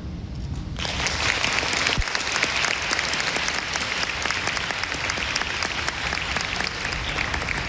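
Audience applauding: dense clapping that breaks out suddenly about a second in and carries on steadily.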